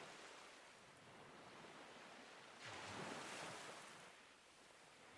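Faint recorded ocean surf: a wave swells up about halfway through and washes back down.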